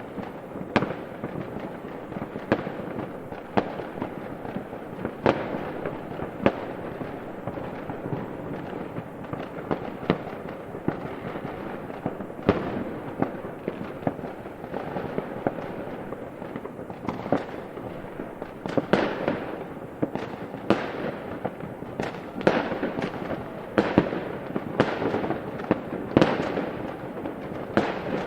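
Fireworks display: sharp shell bursts banging at irregular intervals over a continuous wash of overlapping smaller bursts. The bangs come more thickly in the second half.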